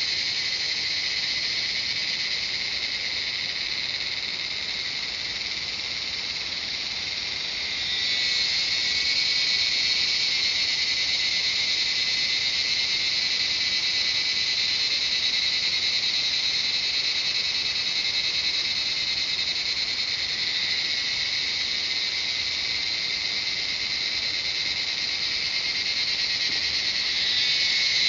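Chorus of cicadas singing, a dense continuous high-pitched buzzing that swells louder about eight seconds in and again near the end.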